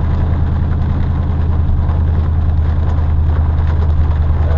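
Pickup truck's engine running steadily, heard from inside the cab as a loud low hum.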